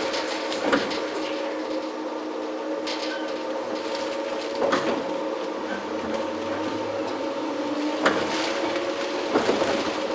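Running sound inside a JR 115 series electric multiple unit motor car: a steady hum from the DC traction motors and gearing, with a few sharp knocks from the wheels and bogies. One tone rises a little near the end.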